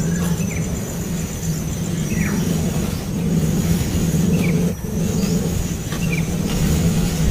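Faint short peeps of a baby bird, one about every two seconds, each a quick falling note, over a louder steady low hum.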